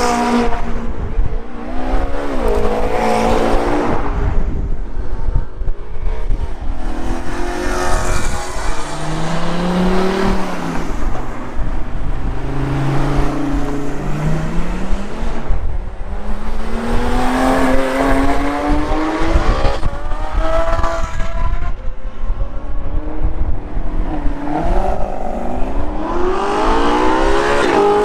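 Car engines revving hard again and again, the pitch climbing and dropping with each rev, over a steady low rumble.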